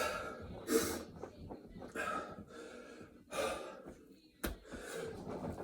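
Heavy gasping breaths of a man in the middle of a set of burpees, about four breaths a little over a second apart. There is a single sharp thump about four and a half seconds in.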